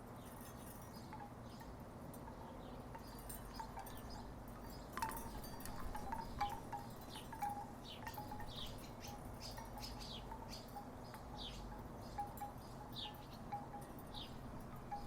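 Wooden tiki wind chimes knocking together in the breeze, with irregular clusters of short strikes that pick up about five seconds in, over a faint steady low background hum.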